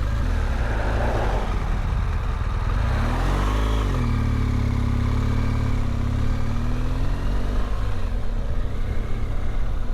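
BMW GS motorcycle engine running under wind noise. About three seconds in the engine note rises, holds steady for a few seconds, then drops off around eight seconds in.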